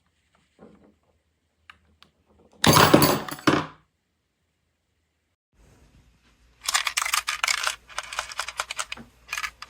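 Handling noise from an electric hand mixer: scattered clicks, a short rush of noise about three seconds in, and a longer run of irregular clattering and clicking from about seven seconds, between stretches of quiet.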